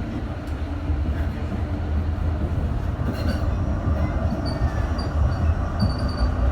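M8C tram running with a steady low rumble, its wheels giving short high squeals from about halfway through.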